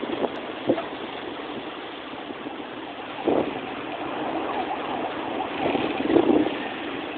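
Heavy hail falling, a dense steady rattle with louder swells about three seconds in and again near the end.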